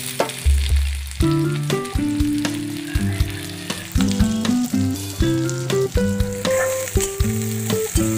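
Chopped onion sizzling as it fries in hot oil in a kadai, with a spatula stirring near the end. Background music with plucked notes plays throughout.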